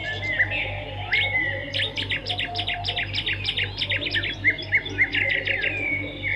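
Edible-nest swiftlets twittering: a dense run of rapid, high chirps and short sweeping calls, with a steady low hum underneath.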